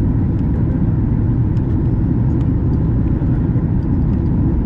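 Steady low rumble inside the cabin of a Boeing 737 MAX 8 on approach, made by its CFM LEAP-1B engines and the airflow over the fuselage.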